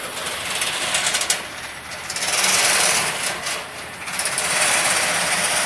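Engine noise from work vehicles, swelling louder a little after two seconds in and again near the end.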